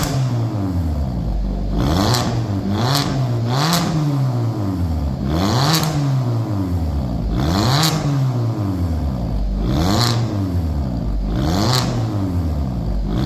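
Hyundai Avante MD's car engine being free-revved through a custom valved aftermarket exhaust: a series of rev blips, one about every two seconds, each rising and falling back, with a short sharp crack near each one.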